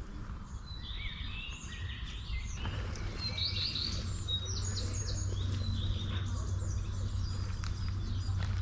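Several songbirds chirping and singing in short, quick overlapping phrases. A low steady hum sits beneath and grows stronger in the second half.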